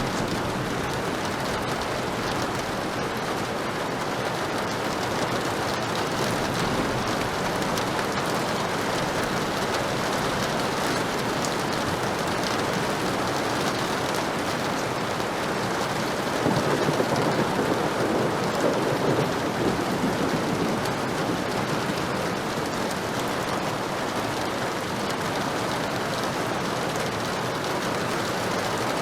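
Heavy rain falling steadily, an even hiss and patter, swelling louder for a few seconds a little past the middle.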